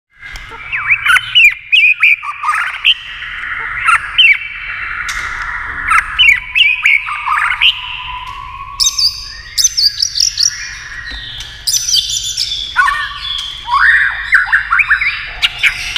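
White-rumped shama singing a fast, varied song of rich whistled glides, sharp clicks and harsh squawky notes, phrase after phrase with brief gaps, over a steady low hum.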